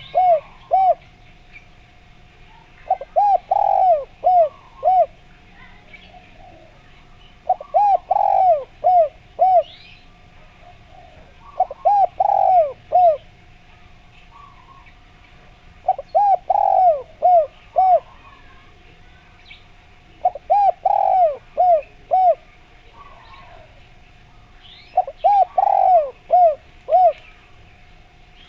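Spotted dove cooing: a phrase of five or six rising-and-falling coos, repeated about every four seconds, with small birds chirping faintly in the background.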